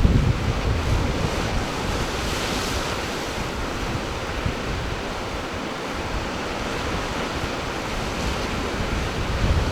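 Ocean surf washing and breaking, a steady hiss of water that swells about two and a half seconds in. Wind buffets the microphone with a low rumble, strongest at the start and again near the end.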